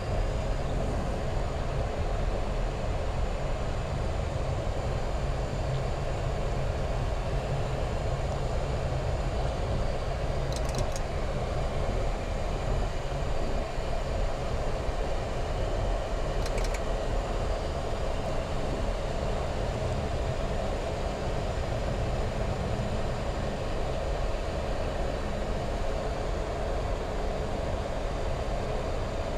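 Steady cabin-side hum of a Boeing 737 MAX 8 on the ground, its CFM LEAP-1B engines idling as heard inside the flight deck, with two faint ticks about ten and sixteen seconds in.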